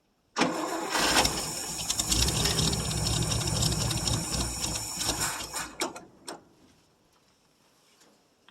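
Starter cranking the 1959 International B120 pickup's engine at an even rhythm for about five seconds, then stopping abruptly, followed by a few clicks. The truck is not pulling fuel from its tank, so the engine is being cranked on gas poured down the fuel line.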